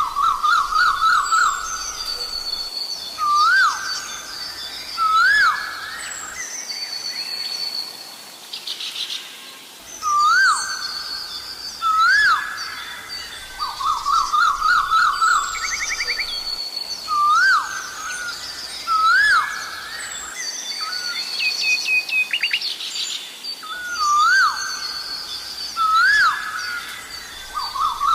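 Asian koels calling: pairs of loud, swooping whistled notes recurring every several seconds, alternating with runs of quick repeated notes at the same pitch. Smaller birds chirp at a higher pitch throughout.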